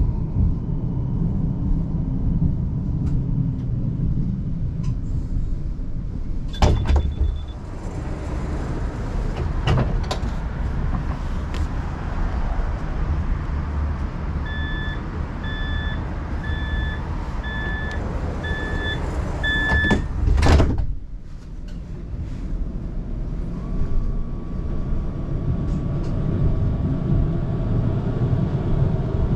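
Door-closing warning of a transit vehicle: about six evenly spaced beeps, then the doors slide shut with a loud thud, over the steady rumble of the vehicle.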